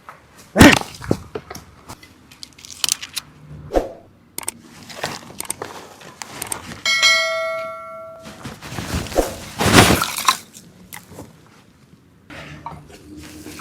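A run of knocks and clatters from objects being handled, with one metallic clang near the middle that rings for about a second.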